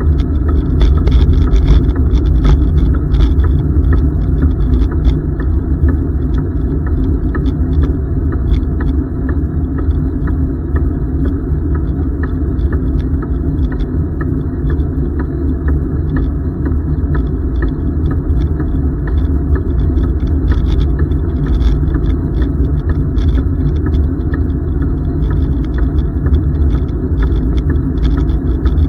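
Steady low rumble of wind buffeting the microphone and tyre noise from a bicycle riding along the trail, with faint light ticks and rattles scattered through it.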